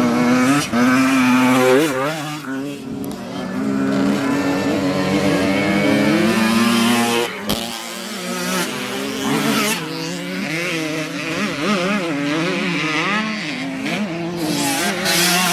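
Several dirt bike engines running and revving, with pitches rising and falling as the bikes go through the throttle. There is one sharp knock about halfway through.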